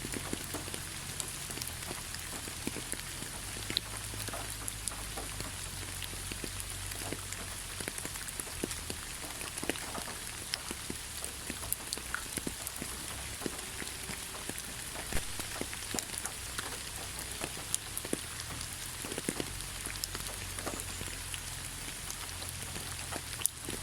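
Steady rain falling in a forest, a constant hiss with many scattered individual drops ticking and pattering nearby.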